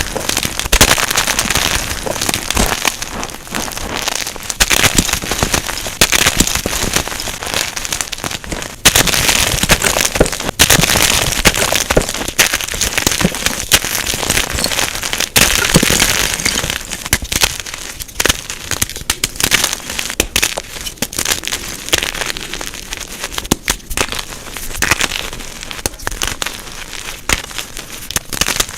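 Gym chalk blocks being crushed: a dense, continuous run of crunching and crackling, sped up to double speed.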